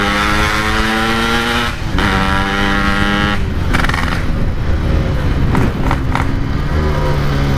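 Yamaha RX-King 135cc two-stroke single-cylinder motorcycle with a Packing Power stock-style exhaust, running under way. The engine note holds steady, drops off twice (about two and three and a half seconds in), runs lower for a few seconds, then climbs again near the end.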